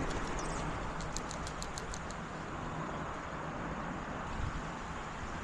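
Steady hum of distant road traffic. A quick run of about eight faint, high clicks comes between one and two seconds in.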